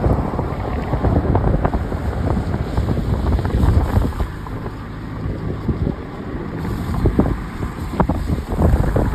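A car driving on wet city streets: a steady low rumble of road and vehicle noise, with wind buffeting the microphone and a few sharp knocks scattered through it.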